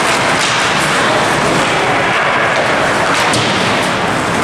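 Loud, steady crowd noise filling an ice hockey rink, with a few sharp knocks heard through it.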